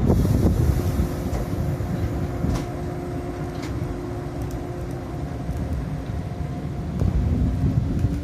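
415 series electric multiple unit train running at a station platform: a heavy low rumble with a steady hum, and a tone rising slightly in pitch near the end.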